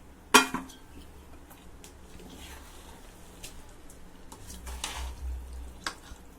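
Raw chicken pieces going into a cooking pot of fried masala paste. A sharp metal clank of a vessel or spoon against the pot comes at the start, then soft scattered knocks and squelches as the pieces are tipped in, and another clank near the end.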